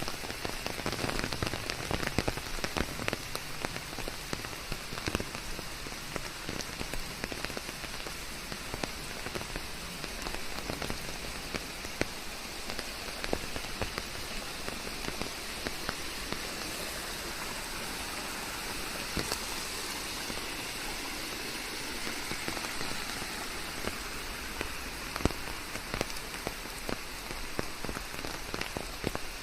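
Steady rain falling on a surface, an even hiss dotted with the sharp ticks of individual drops landing.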